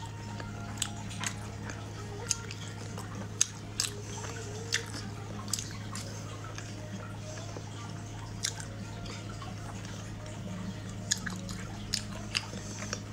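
Close-up chewing of braised pork belly, with wet mouth smacks and sharp clicks at irregular moments. A steady low hum sits underneath.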